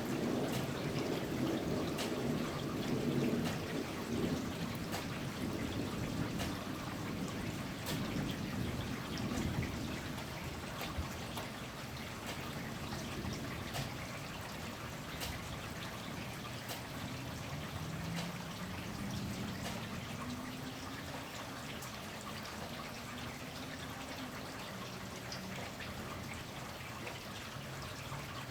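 Steady rain with scattered individual drips, the low rumble of distant thunder dying away over the first several seconds. The rain slowly eases, and a faint rising hum passes around the middle.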